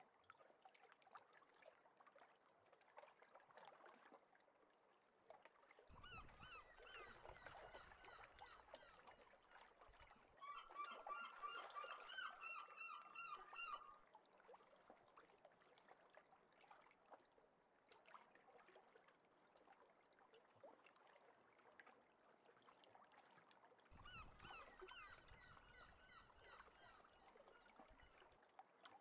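Faint honking bird calls in three short bouts of quickly repeated cries; the middle bout, about halfway through, is the busiest and loudest.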